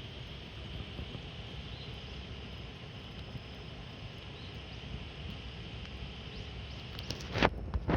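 Wood campfire burning, with faint scattered crackles over a steady high hiss. Two loud, sharp cracks come near the end.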